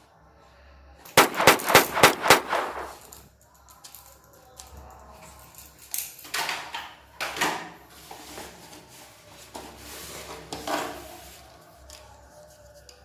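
Gunfire sounds: a rapid burst of about six shots, then a few scattered single shots.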